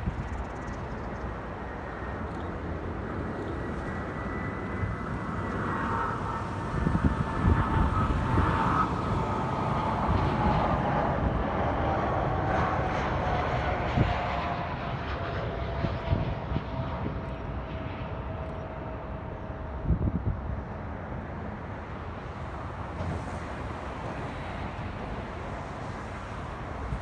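Jet airliner on final approach passing by, its engines running with a whine that slides slowly down in pitch as it goes past, loudest about a quarter of the way in and fading toward the end. Wind buffets the microphone now and then.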